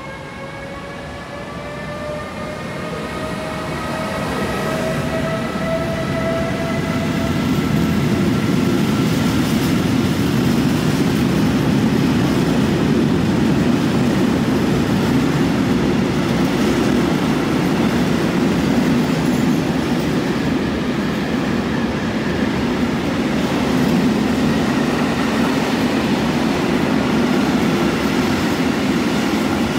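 A train passing on the line. A whine rises slowly in pitch over the first several seconds, under a growing rumble of wheels on rails that then runs steady and loud as the train goes by.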